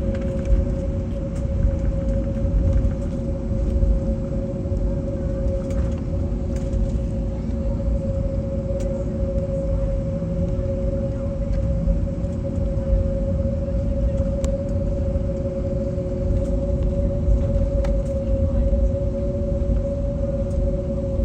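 Cabin noise of an Airbus A321neo taxiing, its CFM LEAP-1A engines running: a steady hum with a constant tone over a low rumble, with a few faint clicks.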